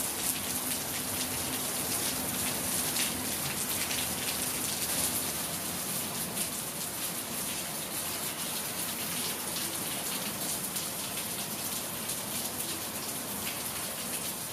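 Heavy rain falling steadily on waterlogged grass: a dense, even hiss with countless small drop impacts ticking through it.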